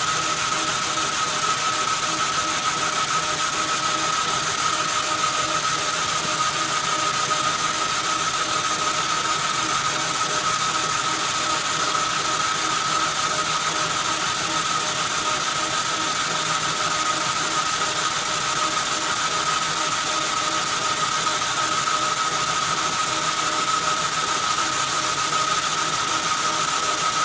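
Metal lathe running at about 400 RPM, its gearing whirring steadily with a high whine throughout, while an insert boring bar takes a light finishing cut in a cast iron pulley bore.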